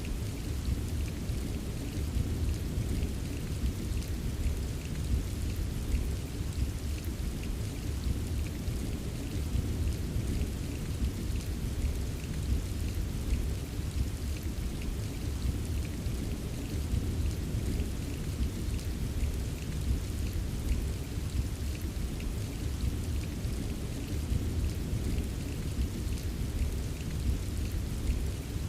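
Steady recorded rain ambience: continuous rainfall with a deep, even rumble underneath and fine scattered drop ticks, unchanging throughout.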